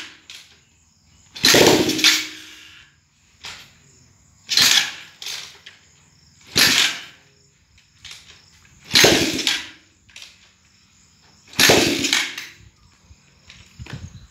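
Techno 200cc motorcycle engine going in five short bursts about two to three seconds apart, each starting sharply and dying away within about a second, during its first start attempts after its wiring burned.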